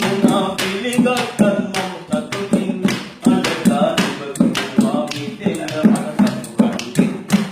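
A voice singing unaccompanied over a steady tapped beat, about three to four sharp taps a second.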